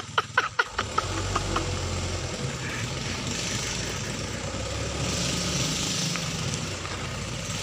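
Mitsubishi Canter light truck's diesel engine running steadily with a low drone that swells a little twice. It opens with a quick run of sharp knocks that dies away within the first second.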